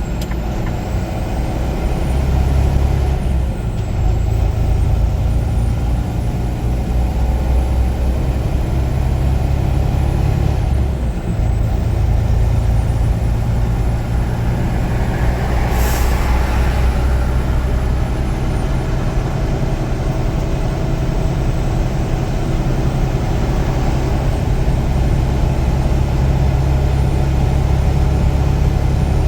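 Heavy diesel truck engine running steadily, its note dipping briefly twice, about 3 and 11 seconds in. A short hiss of air cuts in about halfway through.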